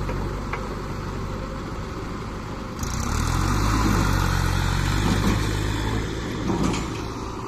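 Diesel engine of a working tractor or backhoe running; about three seconds in it gets louder and picks up speed, then eases back down near the end.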